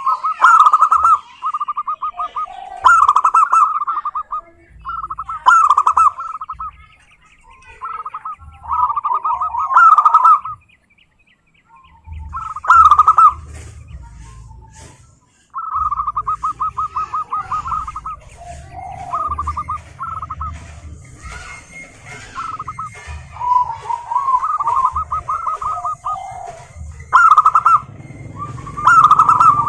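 Zebra doves (perkutut) singing: rapid, staccato, rattling coo trills in repeated phrases of one to two seconds with short pauses between, and brief higher chirps among them.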